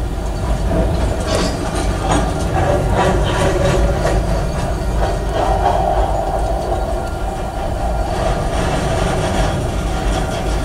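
Freight train tank cars rolling past with a continuous rumble, their steel wheels clacking over the rail joints in clusters.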